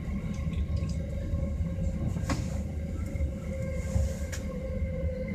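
Commuter train running at speed, heard from inside the passenger car: a steady low rumble of wheels on rail with a faint steady whine. Two sharp clicks come about two and four seconds in.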